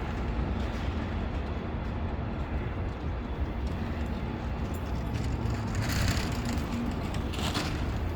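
City street ambience: a steady low traffic rumble with a faint steady hum, and two short hissing surges in the second half.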